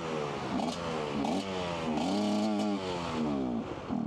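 Dirt bike engine being revved in a few blips, its pitch rising and falling, with the longest rev about two seconds in before it eases back toward idle near the end.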